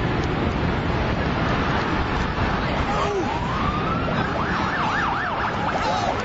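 Emergency vehicle siren over loud, dense street noise: a rising wail about three seconds in, switching to a fast up-and-down yelp about a second later.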